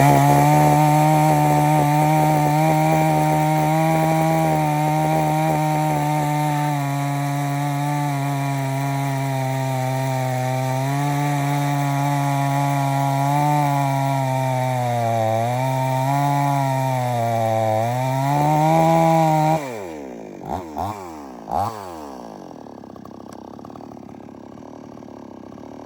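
XtremepowerUS 62cc two-stroke chainsaw running at full throttle while cutting wood, its engine note sagging a few times under the load of the cut. About three-quarters of the way through, the throttle is released and the engine drops to idle after a couple of short blips.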